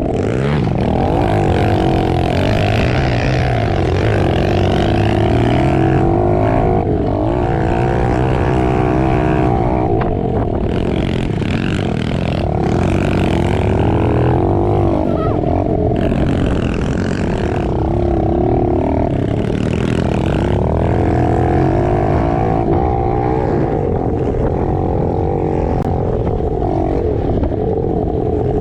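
110cc four-stroke pit bike engines running hard while riding, their pitch rising and falling constantly as the throttle is worked.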